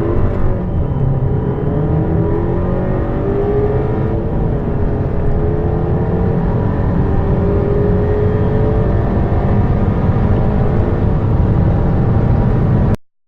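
A VW 2.0 TSI turbocharged four-cylinder petrol engine accelerating hard at full throttle, rising in pitch through the gears with an upshift about four seconds in. The sound cuts off suddenly near the end.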